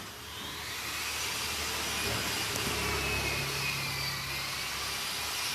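A motor-driven machine running steadily: a rushing noise with a high whine whose pitch wavers slightly, over a low hum.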